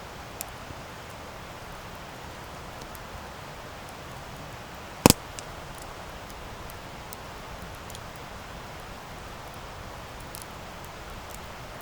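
Campfire burning with a steady hiss and a few faint crackles, and one sharp, loud pop about five seconds in.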